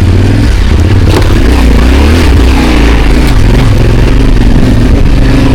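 Motorcycle engine running under load on a rough, rocky track, its pitch rising and falling as the throttle is worked, with scattered clatters and knocks from the bike over the stones.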